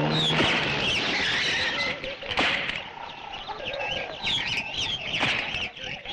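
Many birds chirping and calling at once over a steady hiss. A sharp crack sounds about two and a half seconds in and another a little after five seconds.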